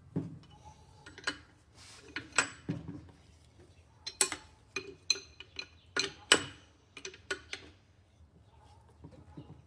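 Irregular sharp metallic clicks and knocks, some ringing briefly: engine parts and tools being handled and set down during the motorcycle engine rebuild.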